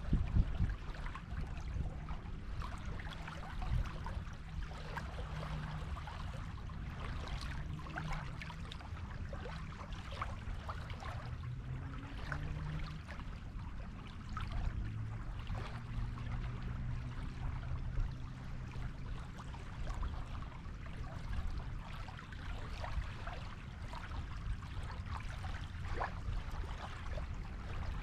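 Waves washing on a beach: a steady wash of water with fizzing, crackling froth over a low rumble. A faint low hum comes and goes partway through.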